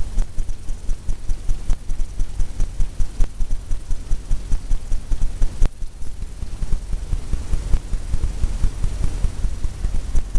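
Paintbrush tapping rapidly against a stretched canvas: a quick, even run of soft low thumps, several a second.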